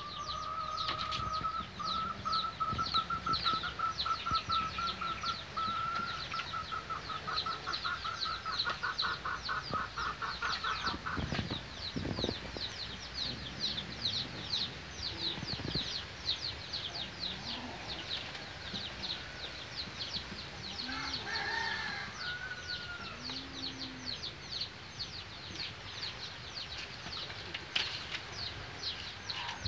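Birds chirping rapidly and continuously in a fast train of short high chirps, with a steady high whistling tone for the first ten or so seconds that breaks into quick pulses and stops. A few lower calls come in around twenty seconds in.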